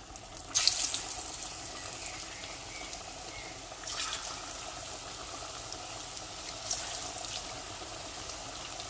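Battered chicken and mushroom pakoras frying in hot oil, with a steady sizzle. Each time a piece is dropped in by hand, the sizzle flares up, three times.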